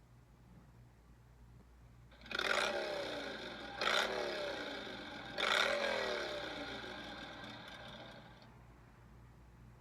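iPhone 6s Plus ringtone playing through the phone's speaker: three electronic tones, each falling in pitch, about a second and a half apart. It begins about two seconds in and fades away near the end.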